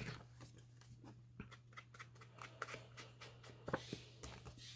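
Faint paper handling: scattered small clicks and light rustles of paper and craft pieces being moved and pressed, over a low steady hum.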